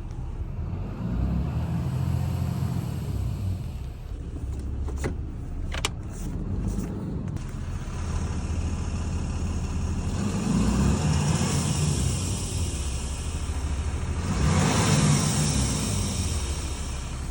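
2022 Ram 3500 pickup running, with a hiss that swells twice, about ten seconds in and again around fifteen seconds, over the steady engine rumble. A couple of sharp clicks come about five to six seconds in.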